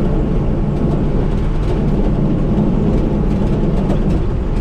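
A vehicle engine running steadily under load, a continuous low rumble with no change in speed.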